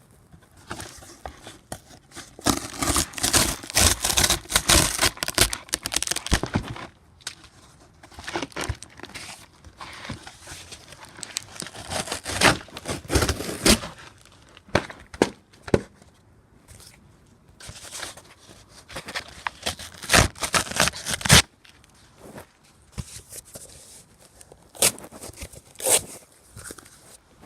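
Cardboard box being smashed and torn apart: bouts of tearing, crumpling and scraping with sharp knocks, four times over with short pauses between.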